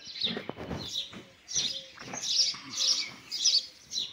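Small birds chirping over and over, about two or three short high chirps a second, with a few sharp knocks from the phone being handled.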